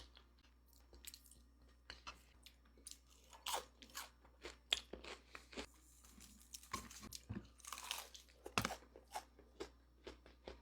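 Close-miked crunching and chewing of crisp food: many irregular crunchy bites and chews, a few louder crunches among them.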